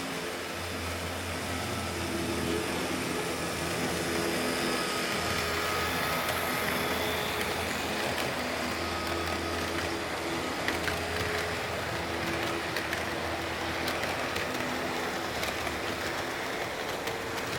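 HO-gauge model train running: the EF58 locomotive model's motor hums steadily while the wheels tick over the rail joints, the clicks coming more often in the second half.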